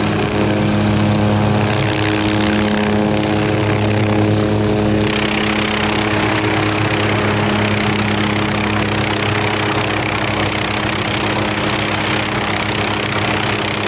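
MD 500 helicopter's turboshaft engine and rotors running steadily, with strong low even tones. About five seconds in, the higher tones fade and a hiss takes over.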